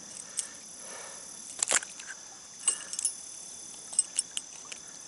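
Steady high trilling of crickets and other insects, with a few scattered sharp clicks and light knocks from handling fishing tackle and a just-landed trout.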